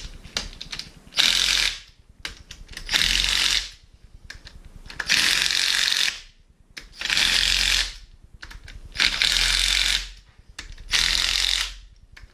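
Ratchet wrench clicking in six quick bursts about two seconds apart, driving down bolts on a rebuilt 13B rotary engine.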